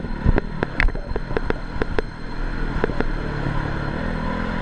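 Motocross bike engine running, its pitch rising over the second half, with many sharp knocks and clicks.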